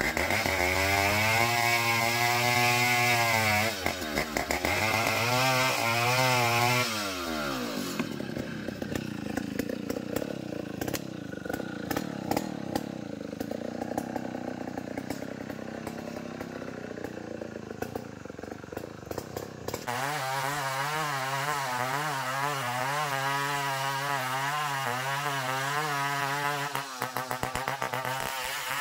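Engine-driven band sawmill running at speed, its pitch sagging twice in the first seven seconds. A quieter stretch with light ticks and knocks follows. From about twenty seconds in the machine runs high and steady again, with a slight wavering in pitch, and it drops off a second or two before the end.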